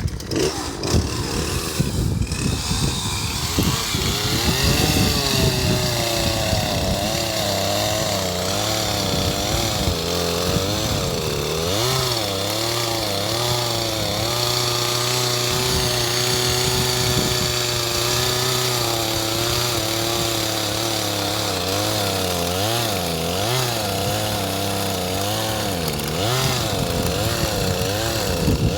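Two-stroke chainsaw running and cutting, its engine speed rising and falling over and over as it bogs under load and picks up again. The saw is barely working.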